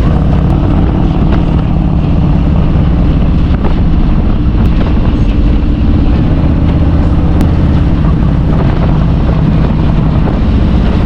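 Motorcycle engine running at a steady pace while riding.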